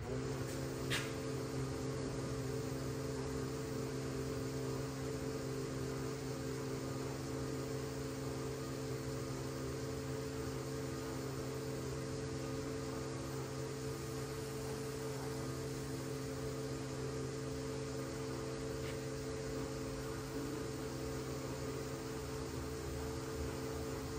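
Steady machine hum with several held low tones from powder-coating equipment running while parts are sprayed, with a sharp click about a second in.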